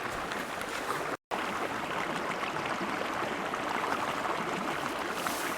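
Steady rushing and babbling of running stream water, with a brief dead gap about a second in.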